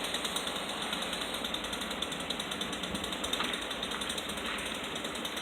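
Jackhammer on a demolition site: a steady, fast rattle of hammering that carries on without a break.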